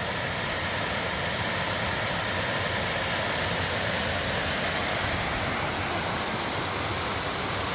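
Waterfall pouring over rock, a steady, even rush of water running heavy.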